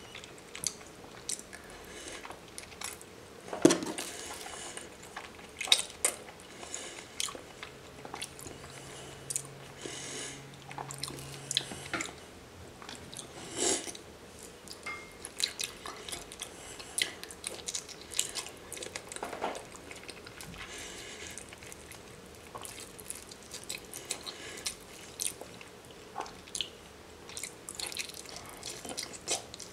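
Close-up chewing and biting of soft raw salmon sashimi, with wet mouth noises and many short, sharp clicks throughout.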